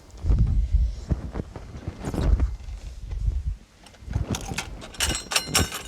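A heavy trailer being moved by hand: low bumps and thuds, then a quick run of metallic clanks and rattles near the end.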